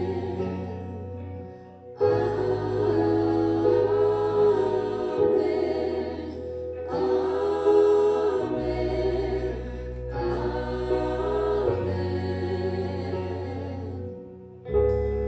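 Gospel-style worship music: a group of voices singing together over sustained bass chords, with short breaks between phrases about two seconds in and again near the end.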